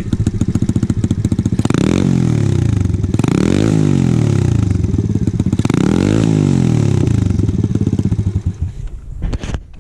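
Ice Bear Champion CT70-clone pit bike's single-cylinder four-stroke engine, through a cheap aftermarket Amazon exhaust, idling loud. It is blipped up and back down a few times, turning a little raspy as it revs, then shuts off near the end.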